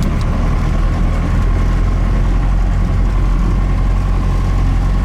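Cummins 4BT four-cylinder diesel engine in a Ford truck running steadily, heard from inside the cab, with a faint steady whine over the low engine drone.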